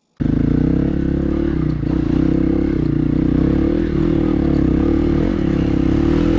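Hero XPulse dirt bike's single-cylinder engine running steadily and loudly. It cuts in abruptly just after the start.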